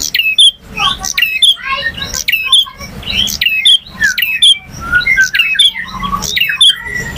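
Male prinia (prenjak) singing: a loud, fast run of sharp chattering and whistled notes, with the phrases repeating about twice a second.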